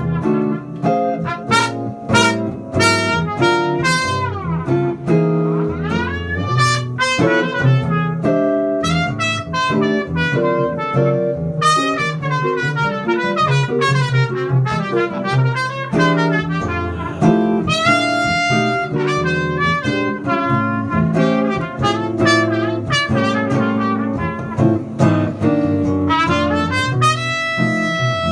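Jazz trumpet improvising a solo over jazz guitar accompaniment, a steady run of melodic notes with the guitar sounding chords and low notes beneath.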